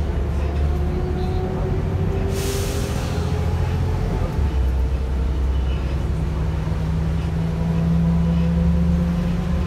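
Volvo B7RLE bus running under way, a steady low diesel rumble with thin gearbox and driveline whines that slowly rise in pitch. A short air hiss from the air brakes about two and a half seconds in, and a stronger low hum joins from about six seconds in.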